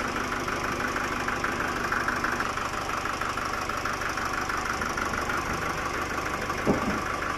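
Sawmill engine running steadily at idle, an even drone with a fast pulsing beat.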